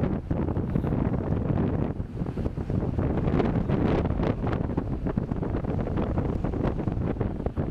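Off-road vehicle driving, a dense low rumble of engine and running gear with scattered knocks and rattles, and wind buffeting the microphone.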